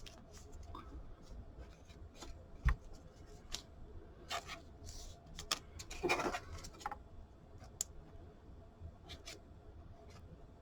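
Trading cards and their plastic holders being handled on a table: scattered light clicks and short rustles, with a sharper click about three seconds in and louder rustling about four and six seconds in.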